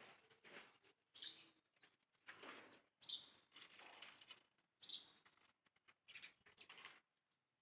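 Faint short high chirps repeated about every two seconds, each followed by a brief rustling hiss.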